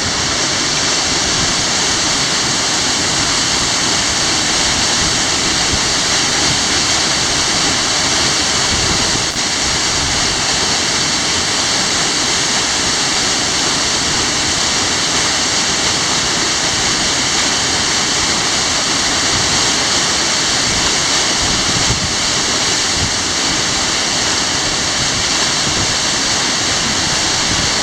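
Waterfall in full spate, about 20 m high, its water crashing down in a steady, loud roar. A seasonal fall that runs only a few days a year, here in rare high flow.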